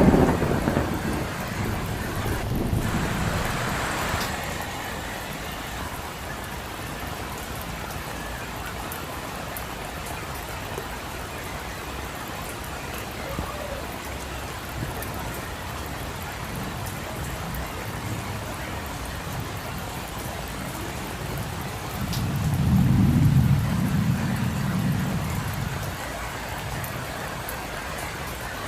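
Steady rain falling on a street, with a low rumble swelling up at the start and again about 22 seconds in.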